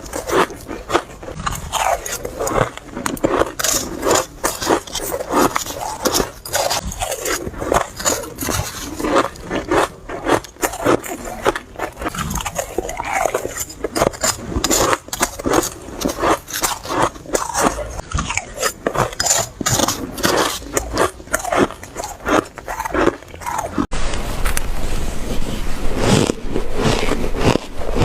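Close-up crunching of mouthfuls of shaved ice being bitten and chewed: dense, irregular crackles and crunches. About four seconds before the end, the sound cuts abruptly to a fuller, louder crunching.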